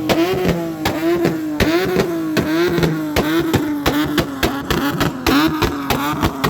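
Car engine held at high revs, its steady note dipping over and over against the rev limiter, with sharp exhaust bangs two or three times a second.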